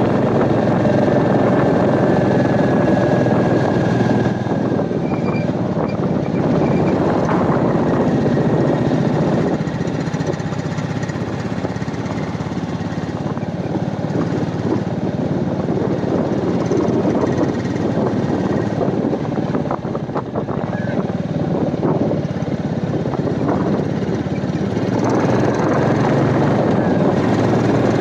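Royal Enfield Meteor 350's single-cylinder engine running under way on a hill road, mixed with wind rushing over the microphone. It eases a little in the middle and picks up again near the end.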